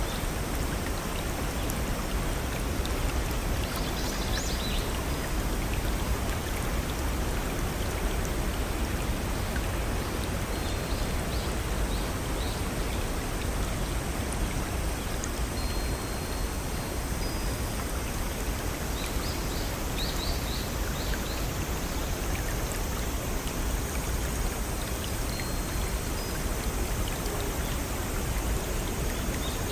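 Steady rush of a small forest stream and waterfall, with birds chirping briefly a few times over it.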